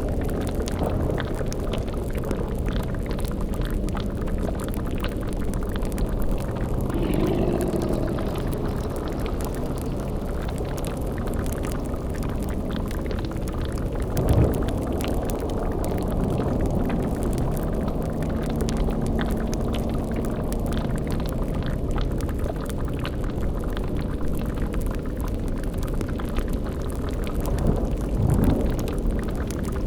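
Layered horror sound-effects ambience: a steady low droning rumble mixed with bubbling, like a boiling cauldron, and crackling. A few louder swells rise out of it, one about a quarter of the way in, a sharp one near the middle and one near the end.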